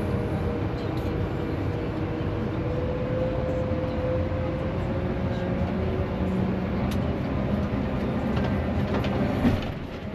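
John Deere 8RX tractor's diesel engine working hard under load on a tight tow chain. Near the end there is a sharp knock and the engine sound drops off, as the small chain snaps.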